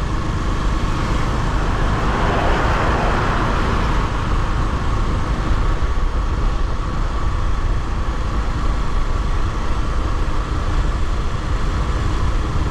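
Motorcycle being ridden on a road: steady low wind rush on the camera microphone over the running engine and tyre noise, with a louder swell of noise about two to three seconds in, as from passing traffic.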